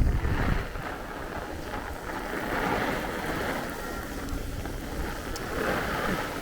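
Heavy downpour of rain with gusty wind buffeting the microphone. There is a strong low rumble of wind in the first half-second, then the rain and wind noise swell and ease.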